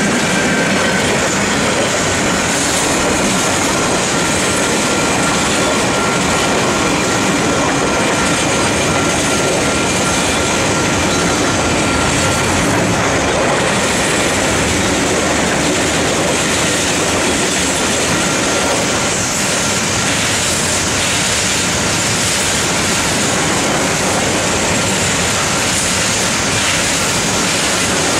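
Container wagons of a long freight train rolling past close by: a steady, loud rush of wheel and rail noise. A thin wheel squeal runs faintly through the first half and fades out.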